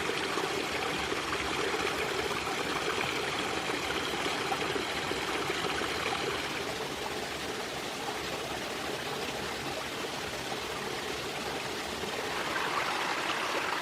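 Stream water running steadily, an even rushing with no breaks; its tone shifts a little about halfway and it swells slightly near the end.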